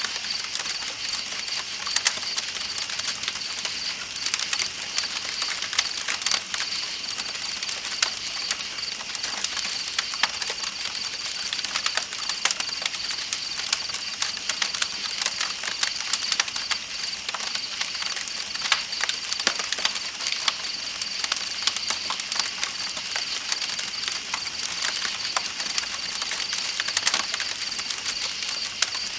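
Campfire crackling with frequent sharp pops, over the steady high chirping of night insects and the even rush of flowing river water.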